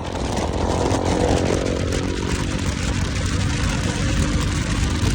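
Motorcycle engine running steadily with a low rumble. A second, higher engine note fades away over the first two seconds.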